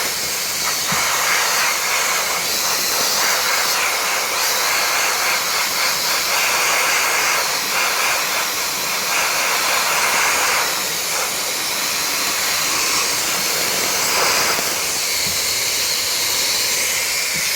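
Continuous hiss of a compressed-air tool at work, its strength rising and falling every few seconds.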